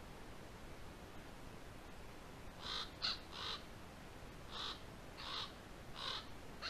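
A crow-family bird calling out of sight: a run of about seven short calls that begins about two and a half seconds in, the later ones coming roughly once a second.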